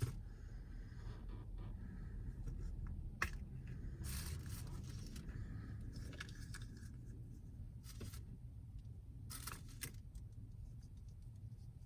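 Sporadic handling noises: short rustles, clicks and scrapes of small items and packaging being handled, over a steady low rumble inside a parked car.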